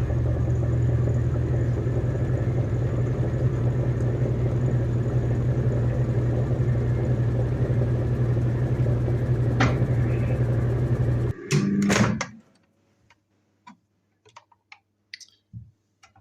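Microwave oven running on a test heat after a blown high-voltage fuse was replaced: a loud, steady low hum that cuts off suddenly about eleven seconds in, followed by a brief clunk, then a few faint clicks.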